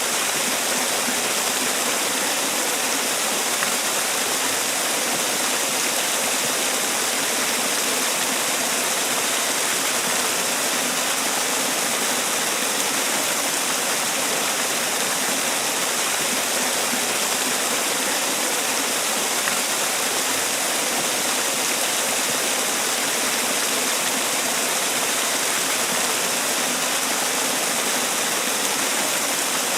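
Man-made waterfall: water falling and splashing in a steady, unbroken rush, bright and hissy.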